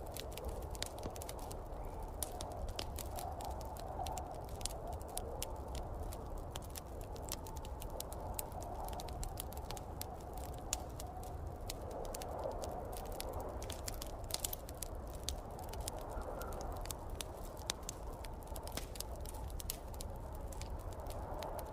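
Wood fire crackling with a steady stream of small sharp pops, over a low rushing snowstorm wind that swells and fades.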